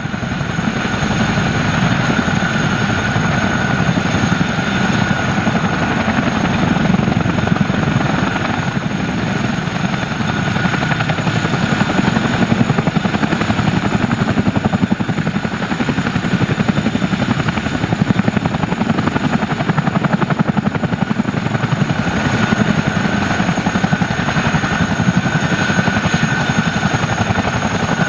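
Helicopter running steadily: a fast rotor beat under turbine noise, with a constant high whine.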